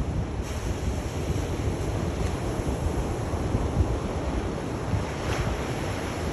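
Sea waves washing on a shore: a steady rush of surf with a deep rumble underneath, and a brighter hiss of water about five seconds in.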